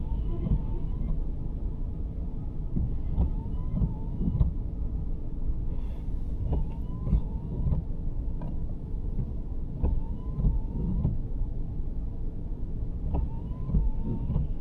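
Cabin sound of a 2023 Nissan Sentra driving: a steady low road rumble, with the windshield wipers sweeping about every three seconds, each pass a short rubbery squeak between two light knocks.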